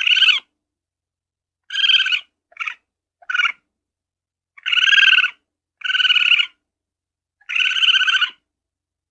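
Ferret calling: a series of seven short calls with pauses between them, each from a fraction of a second to nearly a second long.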